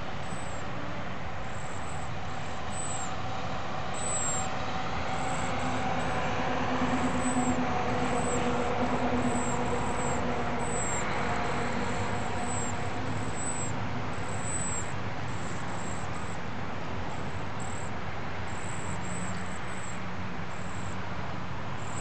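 Cedar waxwings giving many short, very high, thin calls, over the steady drone of a distant engine that grows louder around the middle and then fades.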